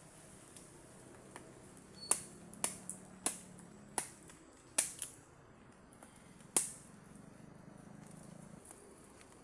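About eight sharp, irregularly spaced knocks or snaps between about two and seven seconds in, over a faint steady background.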